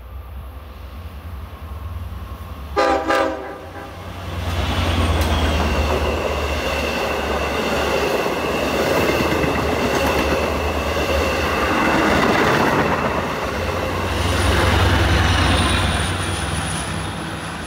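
Long Island Rail Road train of bilevel C3 coaches passing through the station. A short horn blast about three seconds in is followed by the steady rumble and clatter of the coaches going by, with a high whine over it. Near the end the DM30AC diesel-electric locomotive passes, bringing a deeper engine rumble.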